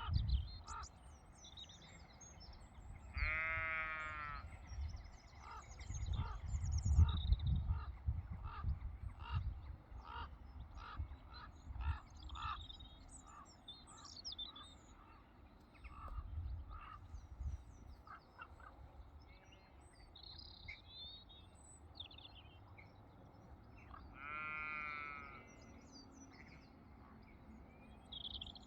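Small birds chirping and calling, with a short note repeated about once or twice a second. A sheep bleats twice, once about three seconds in and again near the end. Low gusts of wind buffet the microphone now and then.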